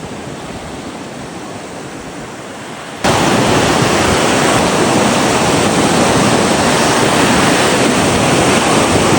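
Ocean surf with wind buffeting the microphone, a steady rushing noise. About three seconds in it jumps abruptly to a much louder rush of surf and wind.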